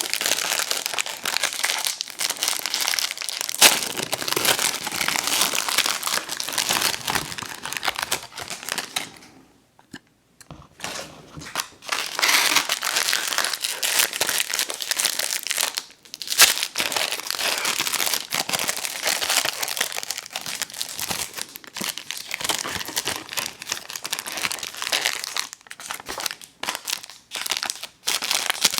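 Close-miked crinkling of plastic candy wrappers, handled in long runs with two short pauses.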